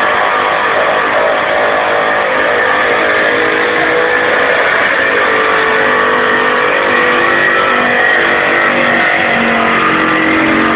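Engine of a pulling vehicle running loud and steady at full throttle during a pull down the track. Its pitch shifts a little as it works under the load.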